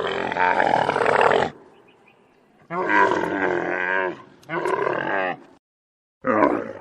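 An animal calling four times: three drawn-out, wavering calls and a short fourth one near the end, with short pauses between them.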